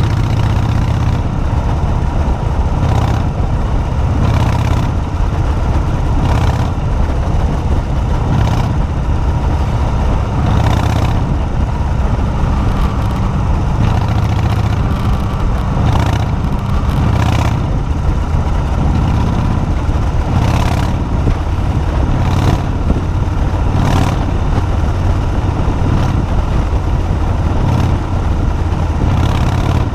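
Motorcycle engine running steadily under way, loud and continuous, with most of its sound low in pitch.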